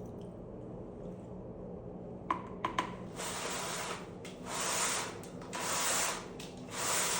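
Steam cleaner letting out steam in four hissing bursts of about a second each, after three sharp clicks about two seconds in.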